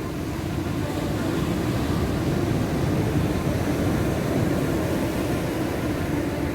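Atlantic surf breaking and rushing on the shore: a steady low rush that swells a little in the middle.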